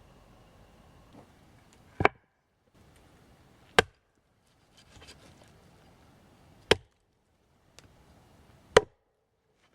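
Four sharp chopping blows into wood, unevenly spaced, each cut off abruptly by a brief silence.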